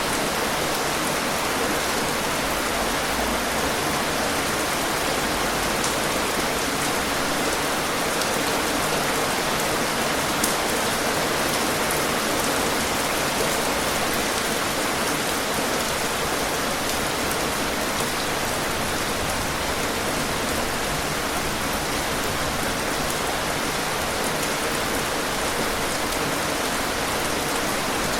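Steady, even rain falling, with an occasional sharper drop tick standing out.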